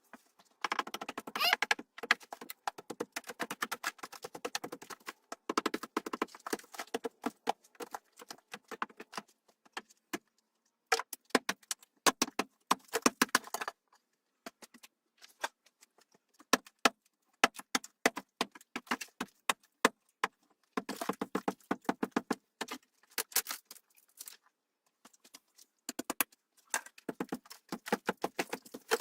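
Rapid clattering and knocking of hard objects, in four spells separated by quiet gaps.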